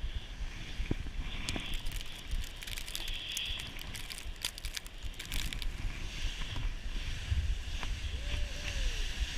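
A sled sliding down a snowy slope, with a rough, steady scraping hiss, scattered crunches and wind on the microphone.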